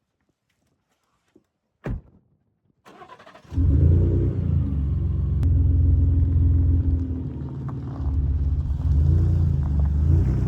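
A single thump about two seconds in, then a truck engine cranks briefly and starts about three and a half seconds in, running steadily with small shifts in pitch.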